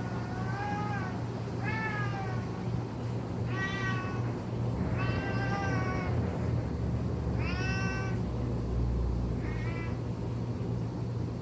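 Domestic cat making a series of about six drawn-out meows, each a second or less, spaced a second or two apart, some bending up and down in pitch: the odd calling the cat makes while dragging its blanket around. A steady low hum underneath.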